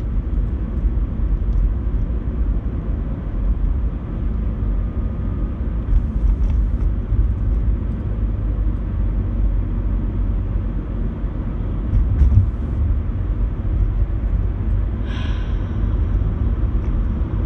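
Steady low road-and-engine rumble inside a moving car's cabin. A brief bump comes about 12 seconds in, and a short higher-pitched sound about 15 seconds in.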